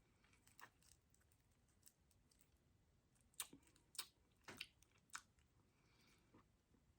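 Faint mouth sounds of someone sucking on a hard Jolly Rancher candy cane: a few short sharp clicks of the candy against the teeth, bunched between about three and five seconds in, over near silence.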